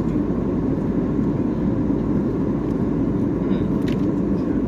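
Steady cabin noise of an Airbus A320-family jet airliner in cruise: an even drone of engines and airflow, deepest in the low range, with a faint steady tone above it.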